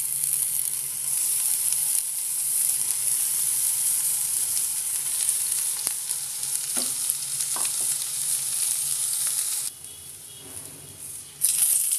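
Brinjal (eggplant) quarters sizzling in hot oil in a nonstick frying pan: a steady high hiss of shallow frying. It drops away for about a second and a half near the end, then comes back.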